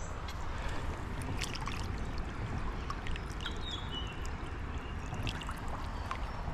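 Creek water running and splashing around the legs of a wading angler, a steady rushing with scattered sharp little splashes. A short high chirp comes a little past halfway.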